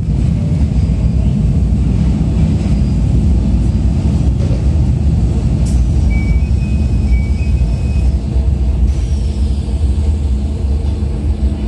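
Interior of a Keikyu New 1000 series electric train standing at a platform: a steady low hum and rumble from the car. About six seconds in, a few short high beeps sound, the door chime as the doors close.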